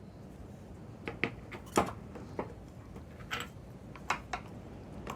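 Scattered sharp clicks and clanks of metal parts being handled, about eight in all, the loudest a little under two seconds in: the top mount going onto a Triumph TR7 front strut's damper.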